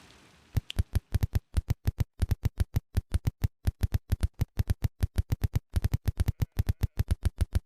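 A fast run of short, sharp clicks with a deep thud to each, about five or six a second, slightly uneven and with a few brief gaps. The run stops abruptly.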